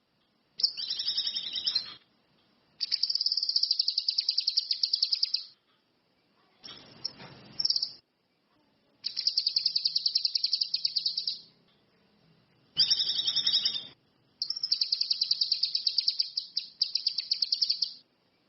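Cucak kinoi (ranti mas) songbird singing in loud, repeated phrases of rapid, high trilled notes, each phrase a second or two to about three seconds long, with short pauses between them.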